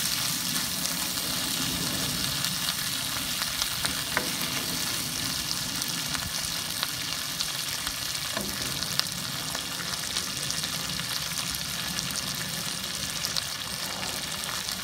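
Pork belly and vegetables (squash, long beans, onion, shrimp paste) sizzling and crackling steadily in a hot oiled nonstick wok, with a wooden spoon stirring through them at the start.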